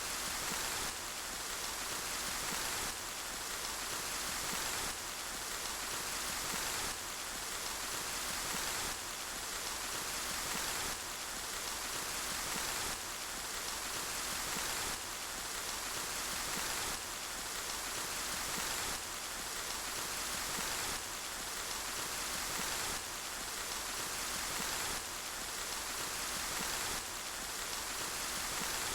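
Steady rainfall, an even hiss with no single drops standing out. The level dips slightly and climbs back about every two seconds, a regular pulse typical of a looped recording.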